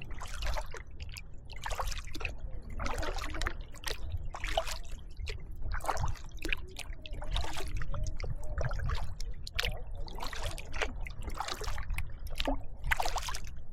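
Kayak paddle blades dipping and pulling through the water in a steady rhythm, about one stroke every second and a half, with water trickling off the blade between strokes. A steady low rumble runs underneath.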